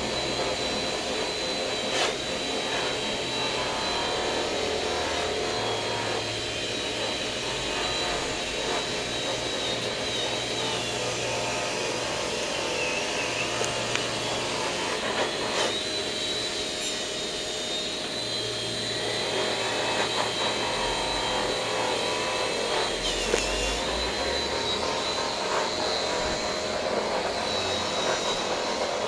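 TIG welding arc: a steady hiss with a thin, high, wavering whine, broken by a few brief clicks.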